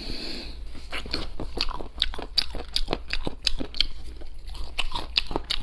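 Close-miked crunching and chewing of charcoal-roasted rooster: many irregular crisp clicks, several a second, as the food is bitten and chewed.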